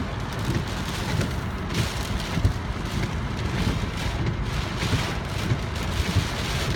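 Hurricane wind and rain: a steady rushing noise with a heavy low rumble that swells and eases in gusts.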